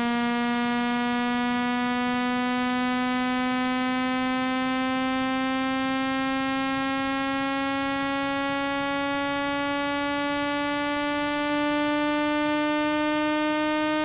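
Synthetic speaker-cleaning tone: a low, buzzy electronic tone full of overtones, sliding slowly and evenly upward in pitch. It is played at full volume to vibrate water and dust out of a phone speaker.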